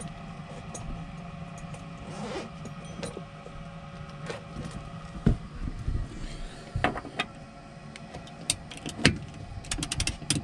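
Trane S9V2 gas furnace's motor humming steadily, with scattered sharp clicks and knocks of metal being handled and a quick run of ticks near the end.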